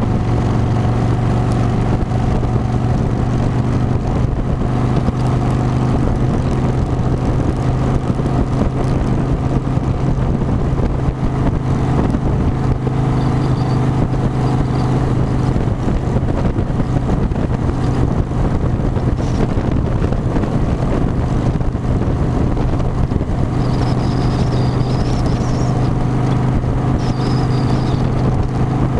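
Harley-Davidson V-twin motorcycle engine running at a steady cruising pitch while riding, with wind rushing past. A faint high whistle comes and goes, briefly in the middle and again near the end.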